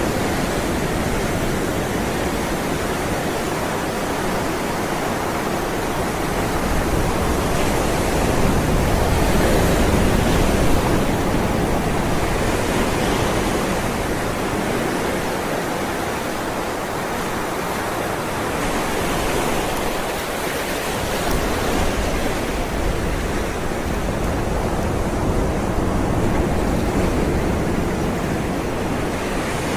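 Ocean waves rolling and breaking in a steady wash of surf, swelling gently twice.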